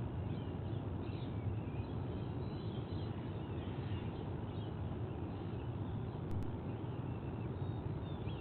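Outdoor ambience at a treetop nest: a steady low rumble with many short, faint bird chirps and whistles scattered throughout.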